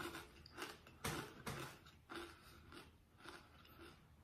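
A person chewing a crunchy cracker with the mouth closed, crunching about twice a second and growing fainter toward the end.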